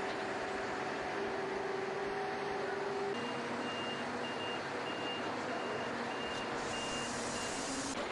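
Steady machinery noise with a low hum that shifts pitch about three seconds in, then a high electronic beep repeating about twice a second, like a reversing or warning alarm.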